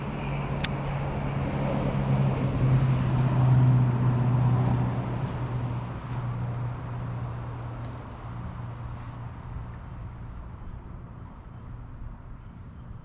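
An engine running at a steady low pitch, growing louder to a peak about three to four seconds in and then slowly fading away.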